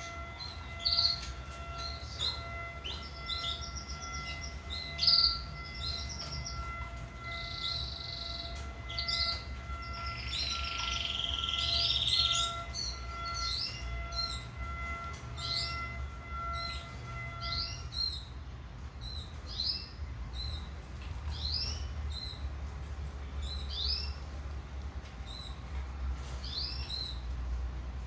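Canary singing: a long run of quick chirps and rolling trills, with a buzzier, louder trill about ten seconds in.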